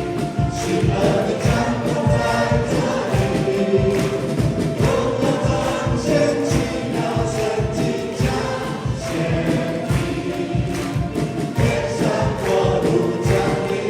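Worship band and group of singers performing a praise song, with a steady drum beat under the voices.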